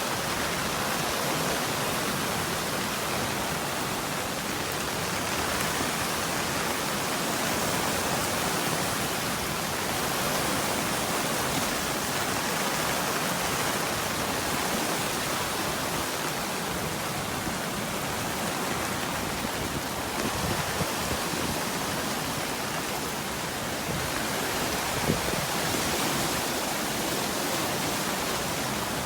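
Swollen river in flood rushing past in a steady, unbroken roar of water.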